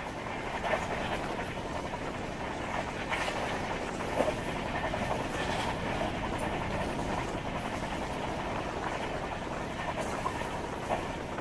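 Passenger train running along the track: a steady rail rumble with a few short knocks and clicks from the wheels and coach, the loudest a little after four seconds in.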